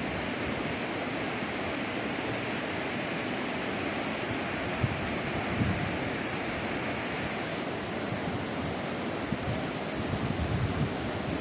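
Steady rush of sea waves and surf, with a few low wind buffets on the microphone near the middle and again near the end.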